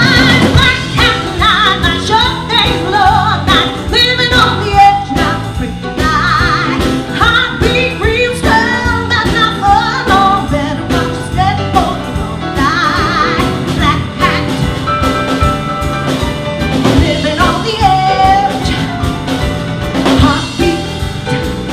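A woman singing with strong vibrato and melismatic runs over a live band of piano, bass and drums.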